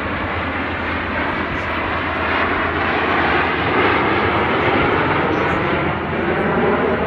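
An airplane flying past during an airshow display. Its engine noise swells to its loudest about four seconds in, then eases off a little.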